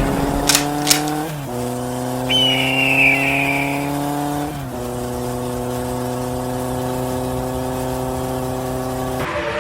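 Motorcycle engine running under way, its pitch creeping up and then dropping at two gear shifts, about a second and a half in and again at about four and a half seconds. A brief high whistling tone falls away about two seconds in, and a rush of wind noise on the microphone begins near the end.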